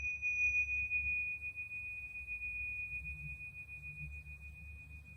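A single high, clear metallic tone from a struck metal sound-healing instrument, ringing on and slowly fading, its higher overtones dying away within the first couple of seconds.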